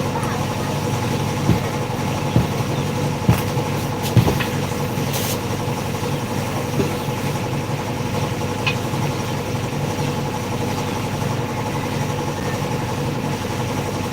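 Steady engine-like machine hum running at idle, with four sharp knocks in the first few seconds.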